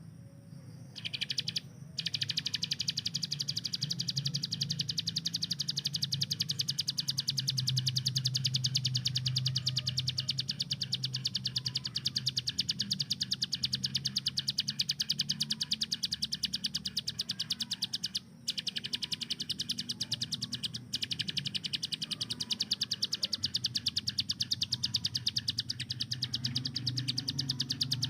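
Bar-winged prinia (ciblek gunung) singing a long rapid-fire trill of fast, high repeated notes that starts about a second in, broken twice by brief pauses about two-thirds of the way through.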